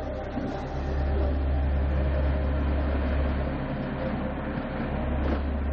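Steady low rumble and hiss of a train in motion, heard on a film soundtrack, with the rumble dipping briefly twice.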